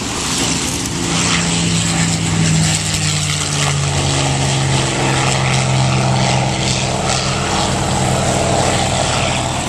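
A World War II propeller fighter's piston engine, heard as it flies a display pass. The engine note steps down in pitch about three to four seconds in as the aircraft goes by.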